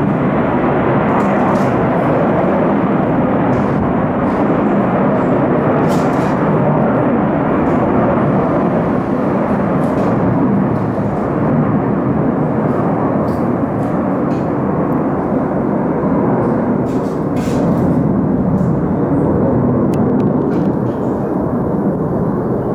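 Military jet aircraft engine noise at an air base: a loud, steady jet roar that holds with only slight swells in level.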